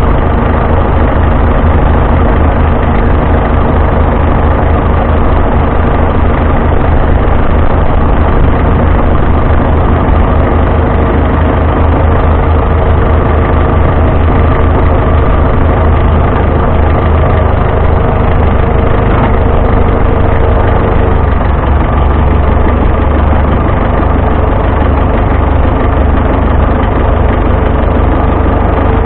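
Vintage farm tractor engine running steadily, loud and close, with its note shifting slightly about two-thirds of the way through.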